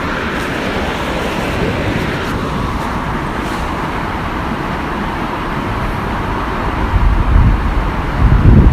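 Steady rushing of a waterfall. From about seven seconds in, wind buffets the microphone in loud low gusts.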